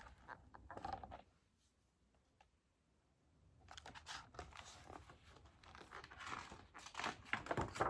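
Faint paper rustling and crinkling with small clicks, typical of a book's pages being handled and turned. It comes after a gap of near-total silence.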